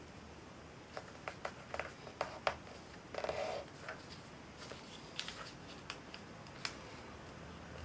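A sheet of paper being handled and folded: a series of sharp crinkles and taps, with a longer rustle about three seconds in.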